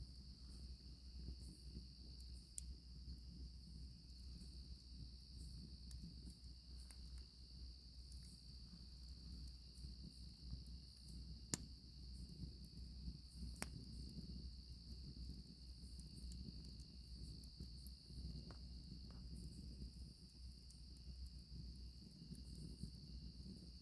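Crickets chirping steadily over a faint campfire, with a few sharp crackling pops from the fire, the loudest about halfway through.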